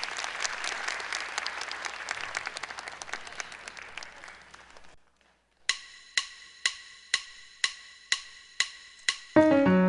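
Audience applauding, dying away over about five seconds. After a short gap, eight evenly spaced, pitched percussive clicks sound about two a second like a count-in, and keyboard music starts just before the end.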